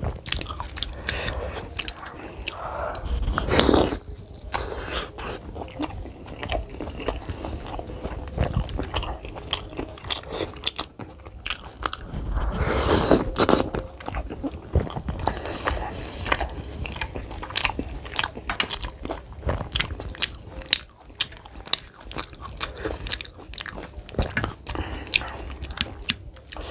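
Close-miked eating: a person biting and chewing pieces of fried samosa dipped in chickpea curry, with many small crunches and mouth sounds.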